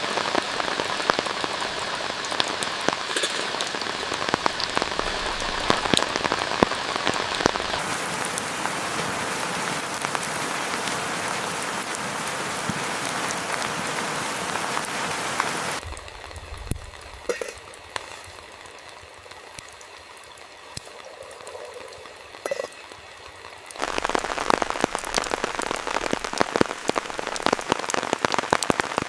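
Steady rain, a dense hiss full of separate drop hits. About 16 seconds in it cuts abruptly to a quieter, duller passage, and the full rain sound comes back about 8 seconds later.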